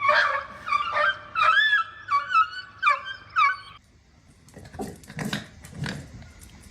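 A dog whining and whimpering in a quick run of short, high-pitched cries for about four seconds, followed by softer clicks and rustling.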